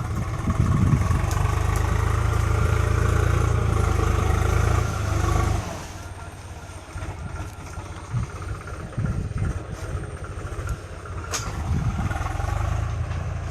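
A motor vehicle's engine running loudly for about five seconds, then dropping off sharply to a quieter rumble with a few scattered clicks and knocks.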